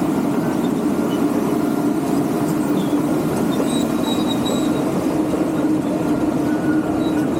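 Tracked excavator travelling: its diesel engine runs steadily while the steel tracks give high squeaks now and then.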